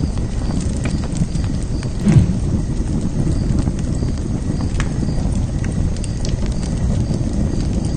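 Wood fire burning: a steady low rumble with scattered sharp crackles and pops. There is a louder low swell about two seconds in.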